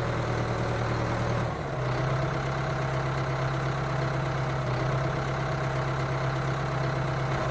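Tractor engine idling steadily, with a brief dip about a second and a half in.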